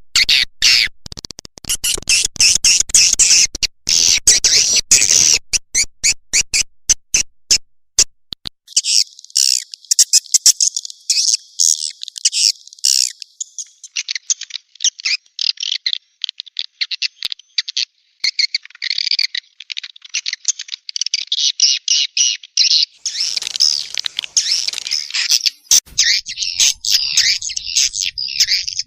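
Swiftlet lure calls: a dense, rapid high-pitched twittering chatter. It is choppy and click-like for the first several seconds, then runs as continuous chirping.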